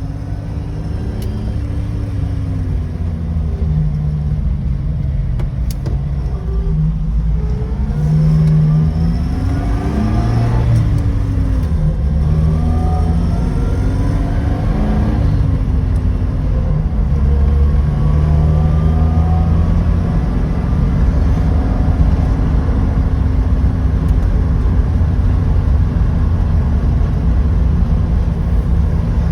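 1968 Opel Kadett four-cylinder engine pulling the car along, its pitch rising and falling again and again as it accelerates and shifts through the gears.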